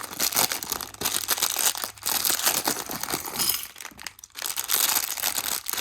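Plastic bags of Lego pieces crinkling as they are handled, with a short lull about four seconds in.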